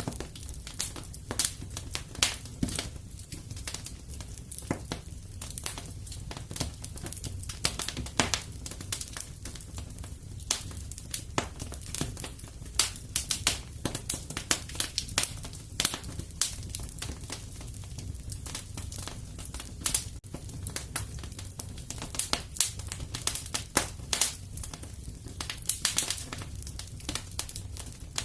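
Wood fire crackling in a fireplace: irregular pops and snaps over a steady low rumble.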